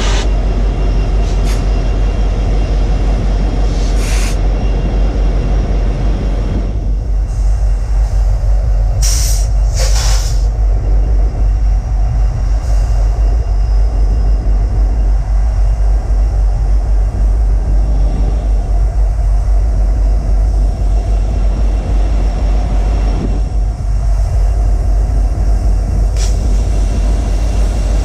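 Kansas City Southern ballast train rolling past, a loud steady rumble of wheels and cars on the rails. A few short high-pitched bursts break through, one about four seconds in, two close together around nine and ten seconds, and one near the end.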